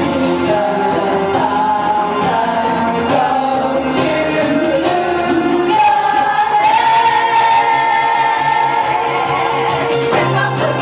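A karaoke singer singing over a backing track, holding one long note in the middle.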